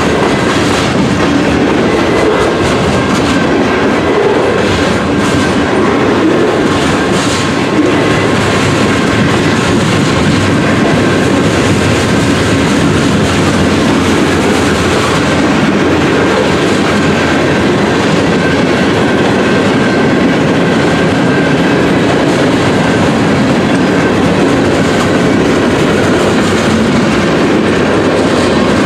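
CN manifest freight train's cars rolling past, steel wheels clacking over the rail joints in a loud, steady rush.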